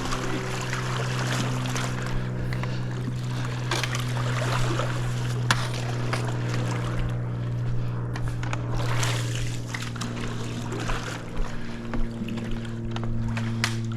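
Pool brush scrubbing tile in irregular strokes, over a steady low hum.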